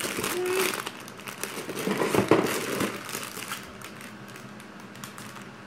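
Toy packaging crinkling and rustling as it is handled, in a run of quick irregular crackles that is loudest about two seconds in.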